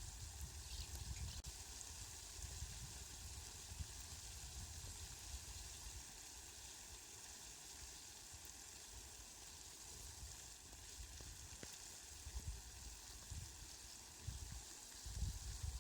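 Steady rain, a fine even hiss, with low rumbling swells near the end.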